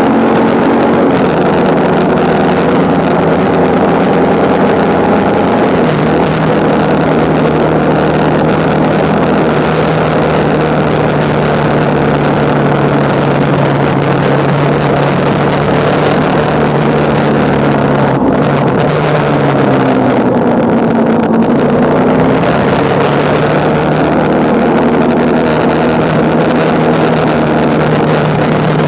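Motorcycle engine running steadily at cruising speed, with wind rushing past. About twenty seconds in, the engine note drops and climbs back up.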